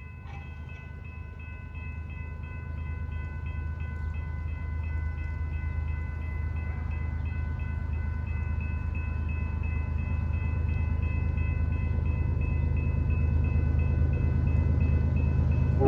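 An approaching train, its diesel locomotives' low rumble growing steadily louder, with a thin steady high whine over it.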